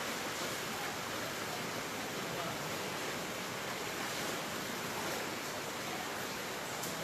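Steady, even rushing noise of rough sea surf driven by strong storm wind.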